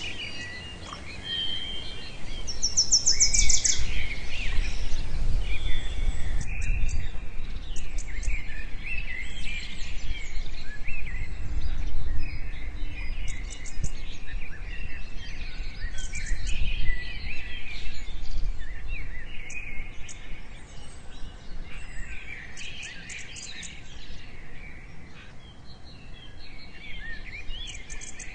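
Birds chirping and calling over one another, with short rapid high trills and a low rumble underneath.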